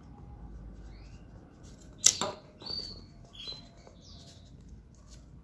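A short knock about two seconds in, then a few brief high bird chirps in the background, over low handling noise from foam petals being worked by hand.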